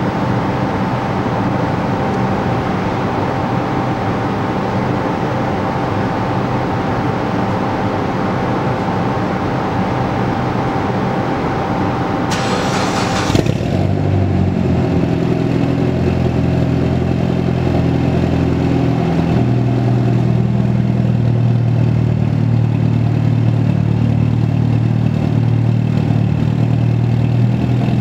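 A Mitsubishi Lancer Evolution X's turbocharged four-cylinder with an Invidia N1 Racing exhaust is cranked and catches about halfway through, then settles into a steady, deep idle. Before that there is a steady noisy hiss with a thin whine.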